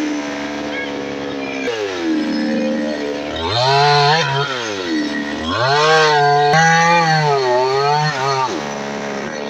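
Two-stroke chainsaw engine idling and being revved up several times, its pitch rising to a high whine and falling back to idle each time.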